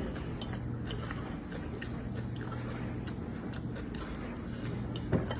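A person chewing a mouthful of sardine, with small wet mouth clicks, over a steady low hum. A sharper knock or clink sounds about five seconds in.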